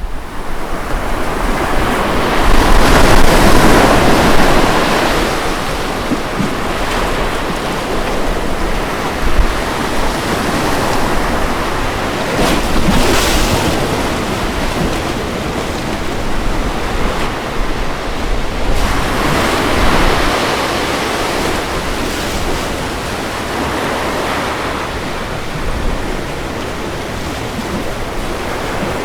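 Ocean waves breaking and washing on a beach in a steady surf, the wash swelling and easing off in slow surges, loudest a few seconds in.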